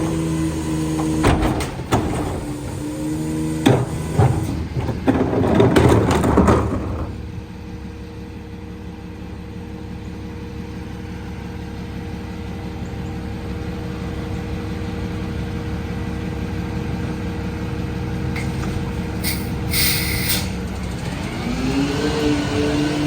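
Freightliner EconicSD McNeilus rear-loader garbage truck: loud knocks and metal clatter for the first several seconds over the running engine, then the engine running steadily. Near the end there is a short hiss of air from the air brakes, and then the engine pitch rises.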